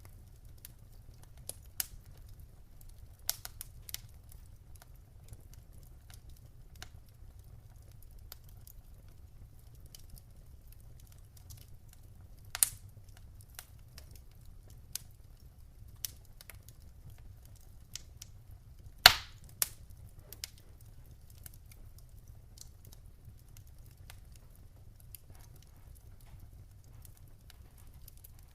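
Wood fire in a fireplace crackling: scattered sharp pops and snaps, the loudest about two-thirds of the way through, over a low steady rumble.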